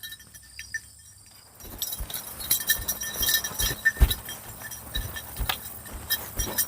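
An animal moving about on its hooves, irregular knocking steps with light metallic clinking, starting about a second and a half in.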